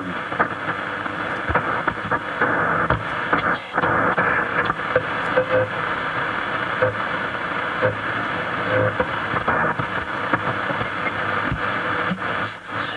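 Shortwave radio static and hiss from a Grundig Satellit 3400 world receiver during a band test on shortwave, with a few short whistle-like tones about halfway through.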